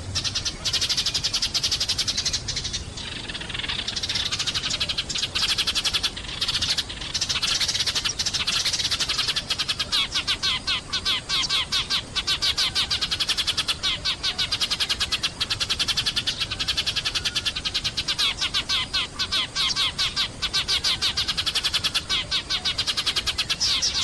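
A flock of sparrows chirping together in a dense, continuous chatter of rapid, high chirps.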